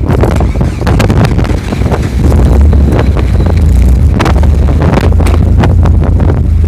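Off-road vehicle running over rough ground with heavy wind buffeting the microphone: a loud, constant low rumble broken by frequent sharp knocks and rattles.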